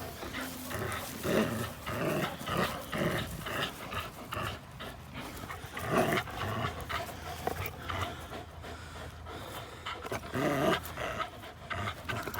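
Dogs panting hard, with some growling, in rough play.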